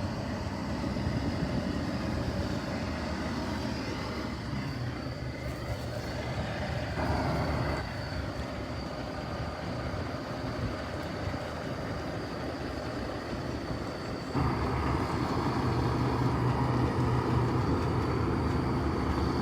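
Heavy truck engine running steadily, growing louder about fourteen seconds in.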